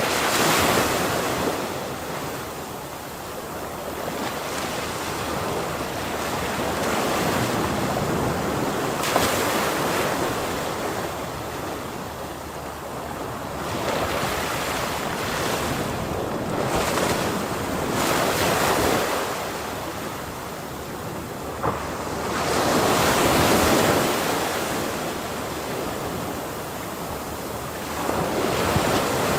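Ocean waves breaking on a shore: a continuous rush of surf that swells and eases, with a louder wave every few seconds.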